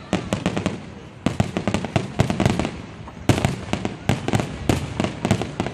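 Fireworks going off in rapid volleys of sharp cracks and pops, with a brief lull just before a second in, then fresh flurries at about a second and again a little past three seconds.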